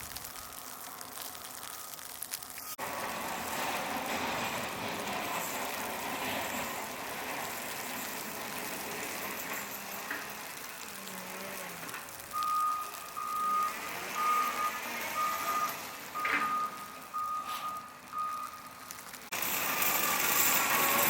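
A vehicle's reversing alarm beeping at a steady pitch, about nine beeps a little under a second apart, over steady outdoor noise.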